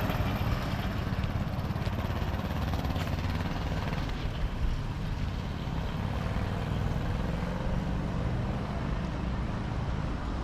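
Steady rumble of road traffic, an even low-pitched noise with no single vehicle standing out.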